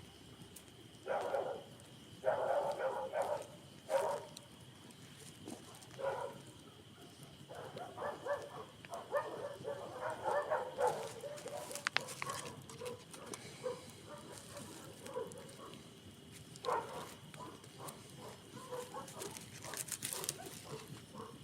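Animal calls in short, irregular bursts, some in quick runs, over a faint steady high tone, with a few sharp clicks.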